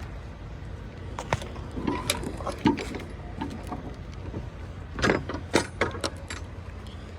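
A steady low hum with a scatter of sharp clicks, knocks and light metallic rattles over it, the loudest a quick cluster of knocks about five to six seconds in.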